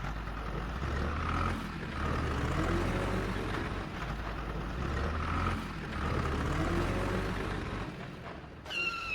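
Vehicle engine running steadily with a low drone that swells and eases about every four seconds. Near the end a high steady tone starts.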